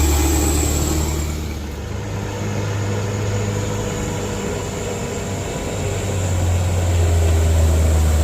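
Heavy vehicle engine running with a deep, loud hum that eases off about two seconds in and builds up again near the end.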